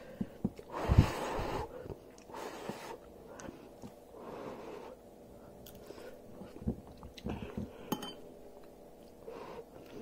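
A person eating noodles: chewing, with several short breathy gusts of noise and a few sharp clicks.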